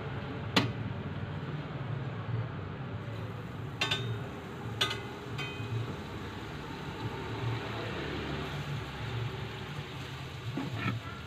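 Steady low hum under a noisy background haze, broken by a few sharp metallic clinks, two of them ringing briefly.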